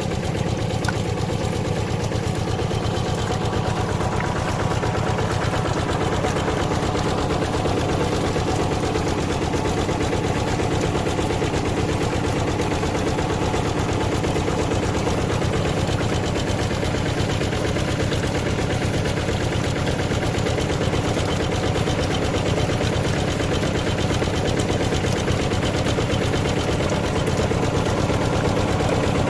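Hand tractor's single-cylinder diesel engine running steadily, a rapid even chugging of firing pulses.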